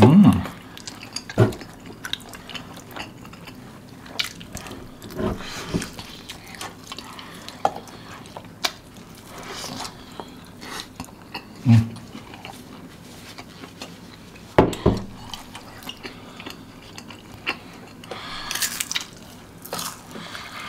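Close-miked eating sounds: wet chewing and mouth clicks as sauce-coated fried chicken is bitten off a skewer. A few louder soft thumps and small clicks are scattered through it.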